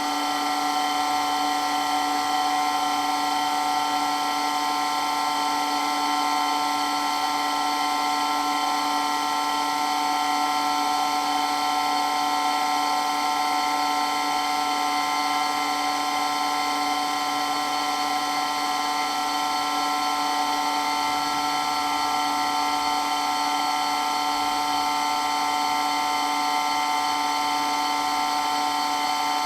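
Water-blasting pump running steadily, a constant whine of several tones over a hiss, with no change in speed or level.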